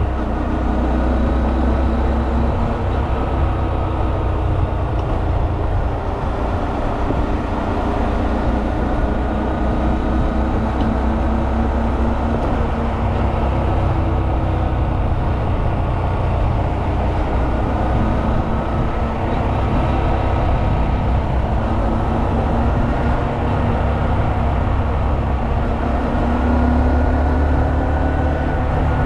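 Honda Monkey 125's single-cylinder four-stroke engine running steadily on the move, its pitch drifting gently up and down with the throttle, over heavy low wind rumble on the microphone.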